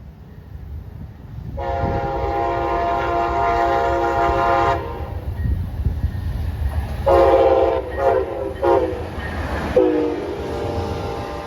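Amtrak passenger train's locomotive air horn sounding over the rumble of the train: one long blast, then a few shorter blasts and a final brief one.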